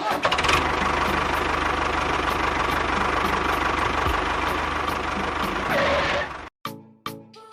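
A small motor of a DIY model construction machine running steadily with a dense mechanical whirr, then stopping abruptly about six and a half seconds in.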